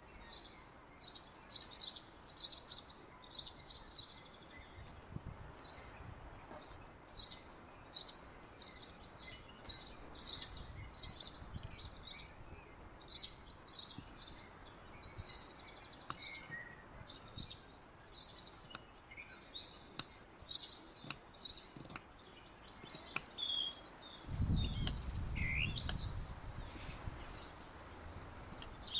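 Small birds chirping in quick, repeated bursts of short high notes, with a few sweeping whistled calls near the end. A low rumble comes in for a few seconds near the end.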